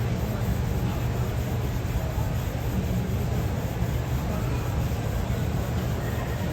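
Steady low rumble and hum of an airport terminal's departure lounge, with no distinct events.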